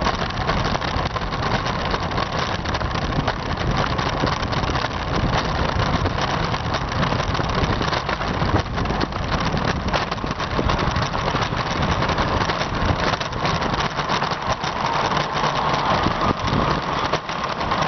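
Wind rushing and buffeting over the microphone of a camera on a bicycle riding downhill at about 20 mph, an unbroken noisy rush with a rumbling low end.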